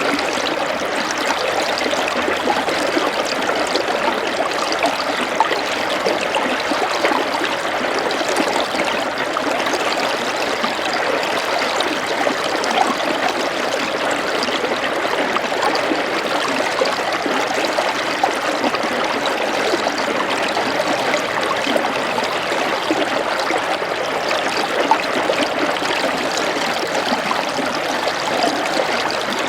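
Small stream of running water trickling steadily, with no breaks or single events.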